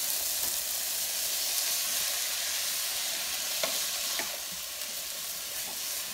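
Shredded cabbage egg-roll filling sizzling in a nonstick skillet as a wooden spoon stirs it, with a steady hiss and a couple of light clicks of the spoon against the pan a little past the middle.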